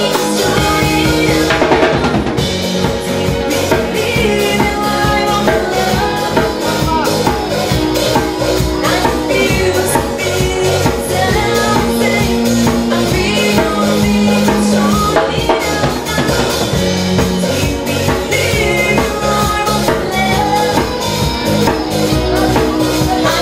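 Live band playing, a drum kit keeping a steady beat under sustained instrumental parts.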